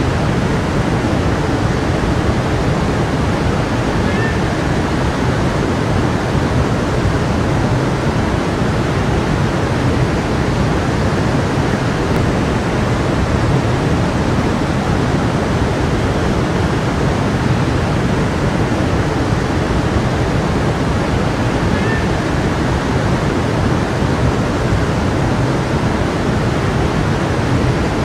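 A stream's water running steadily, an even rushing with no change.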